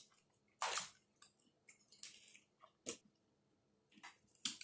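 A person chewing a mouthful of taco close to the microphone: a series of short, irregular chewing and bite sounds with a few sharp clicks.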